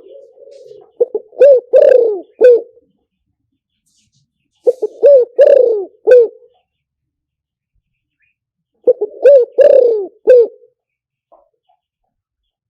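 Spotted dove cooing: three calls about four seconds apart, each a few short coos and a longer coo that falls in pitch. It is the call used as a decoy to draw wild spotted doves in.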